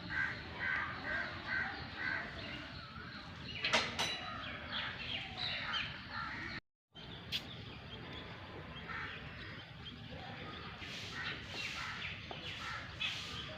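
Birds calling outdoors: a quick run of short, evenly repeated calls in the first few seconds, then scattered calls over a steady background. The sound cuts out completely for a moment about halfway through.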